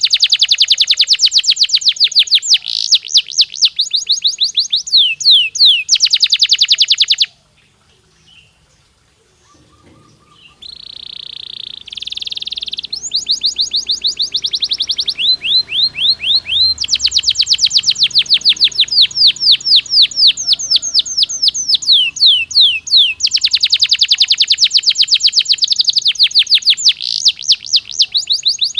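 Domestic canary singing: long fast trills of rapidly repeated downward-sweeping notes. About a quarter of the way in the song pauses for about three seconds, then a short steady held note leads back into the trills.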